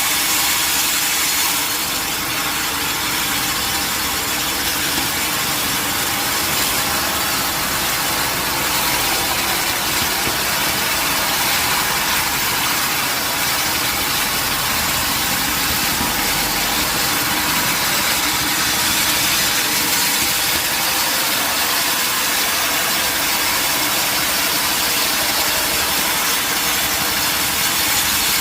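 Sawmill machinery running steadily: a constant mechanical hum and hiss with no clear change.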